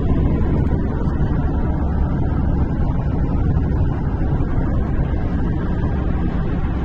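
A car on the move: steady rumble of tyres and engine noise, heavy in the low end.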